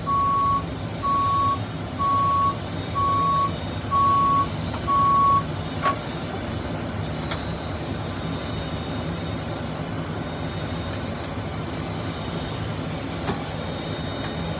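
Reversing alarm on an aircraft pushback tug, a steady high beep about once a second, over the tug's engine running steadily. The beeping stops about six seconds in, and the engine hum carries on.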